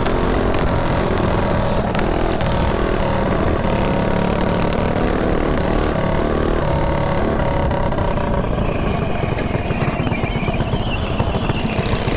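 Mini bike engine running steadily under way, with heavy wind rumble on the rider's chin-mounted microphone; the high hiss eases somewhat about two-thirds of the way through.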